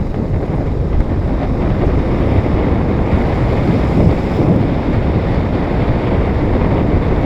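Steady wind noise buffeting the microphone on a moving motorcycle, a loud, even rumble.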